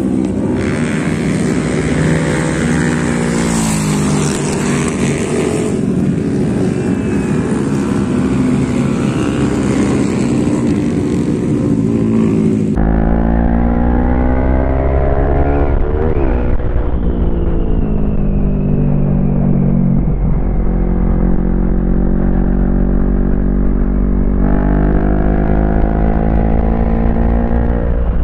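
Motorcycle engine, the rider's CFMoto NK400, running hard on a race track, its pitch rising as it accelerates and falling as it shifts down or slows. About thirteen seconds in the sound changes abruptly: the hiss is gone and a heavy low rumble comes in under the engine.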